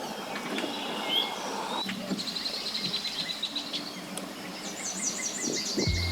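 Birds chirping and trilling over steady outdoor background noise, with a run of quick, repeated falling notes near the end.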